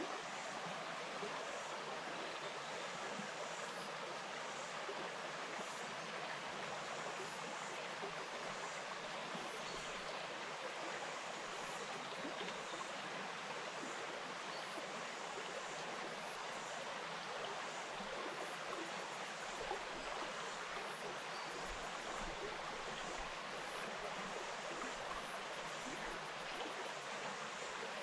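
Small bush stream flowing over stones, a steady even rush of water.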